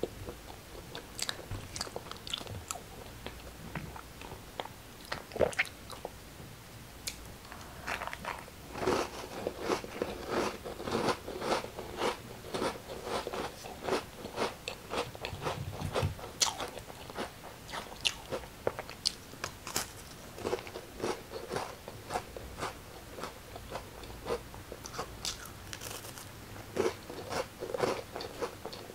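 A person biting and chewing crisp food, many sharp crunches in quick succession, sparse at first and then close together.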